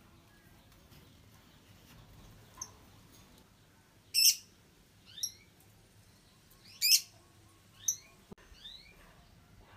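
White-rumped shama calling: two loud, sharp notes a little under three seconds apart, a few softer sharp notes between them, and short rising whistles after each.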